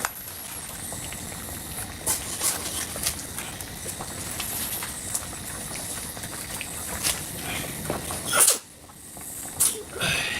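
Kitchen clatter: scattered clinks and knocks of dishes and utensils over a steady hiss. A loud clatter comes about eight seconds in, after which the hiss briefly drops away.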